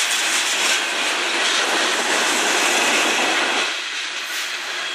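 Freight train cars (tank cars and covered hoppers) rolling past at close range: a steady rush of steel wheels on rail that eases a little near the end.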